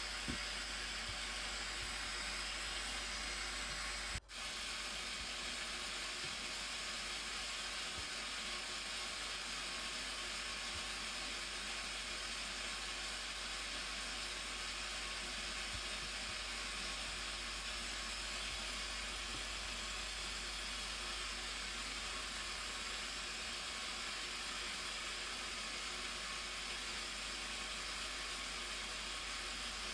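Blue Nile Falls, water rushing in a steady hiss, with a brief dropout about four seconds in.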